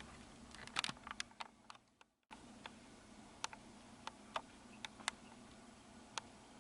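Faint, irregular clicks and ticks, a dozen or so, over a steady low hum, with a brief cut to silence about two seconds in.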